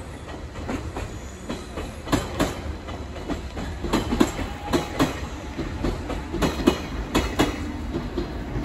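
A train rolling slowly over the tracks, its steel wheels clacking over rail joints in an uneven run of sharp knocks above a low rumble.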